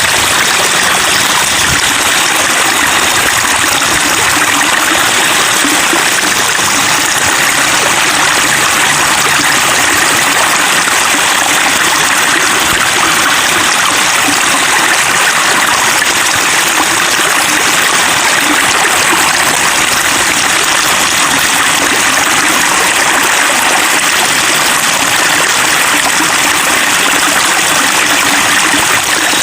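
Continuous babbling of flowing water, a stream or small cascade splashing over rocks, steady and loud throughout.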